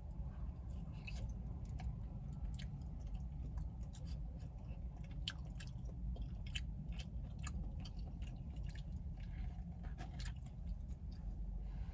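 Close-up mouth sounds of a person chewing a spoonful of KFC Famous Bowl, with many small wet clicks and smacks scattered throughout, over a low steady rumble in the car cabin.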